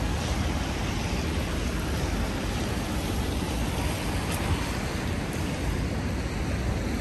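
Steady hiss of rain over city street noise, with a low rumble of traffic underneath.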